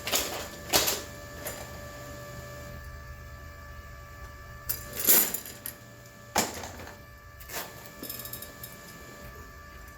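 A handful of sharp metallic clanks and scrapes, irregular and a few seconds apart, over a steady electrical hum, as metal is handled between weld passes.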